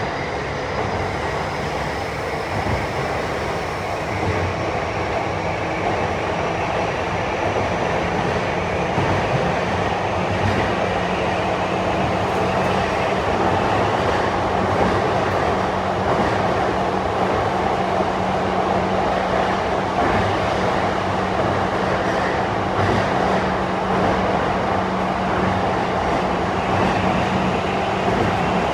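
Running noise of a JR East E235-1000 series electric train in a tunnel: a steady rumble of wheels on rail that grows slowly louder, with a faint rising whine over the first few seconds and a low steady hum joining about twelve seconds in.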